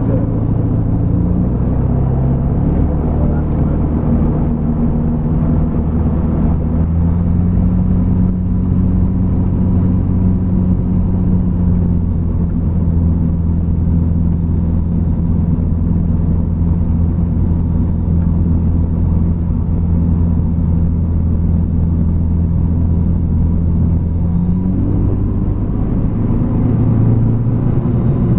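Evektor SportStar's Rotax 912 four-cylinder engine running steadily, heard from inside the cockpit; about 25 seconds in its pitch rises as the engine speeds up.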